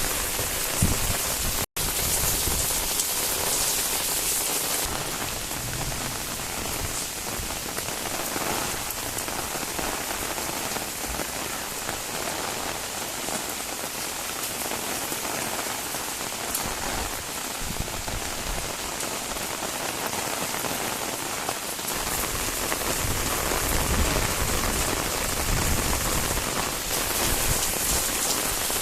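Steady rain falling, an even hiss of drops striking surfaces, with a split-second dropout in the sound about two seconds in.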